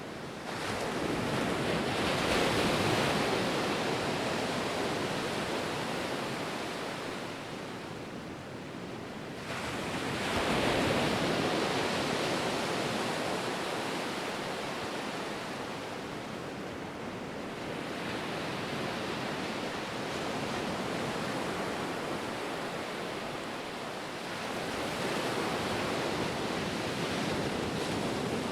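Ocean waves breaking and washing ashore: three slow surges of surf, each swelling quickly and then fading into a steady hiss.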